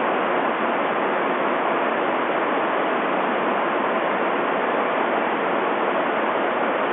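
Steady, even rushing of air from the large fans that make the wind for indoor model-yacht racing.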